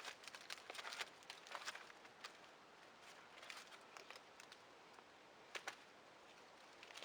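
Faint rustling and light crackling, denser in the first two seconds, then only a few scattered ticks.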